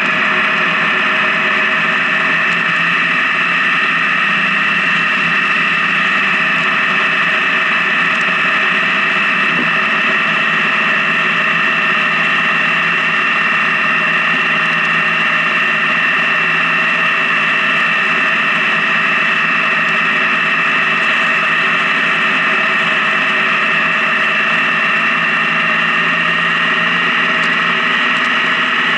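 Honda Gold Wing touring motorcycle's engine running steadily while cruising on the highway, its note rising slightly near the end.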